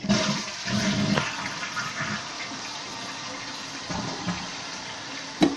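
1995 Vitromex Marathon toilet flushing: a loud rush of water for about two seconds, settling into steadier, quieter running water.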